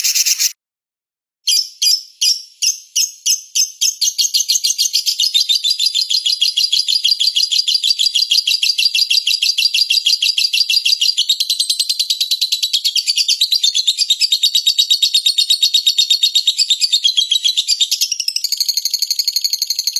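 Recorded songbird singing. After a brief gap, sharp high chirps start at about three a second and speed up into a fast, unbroken trill. Near the end it changes to a different, more even trill.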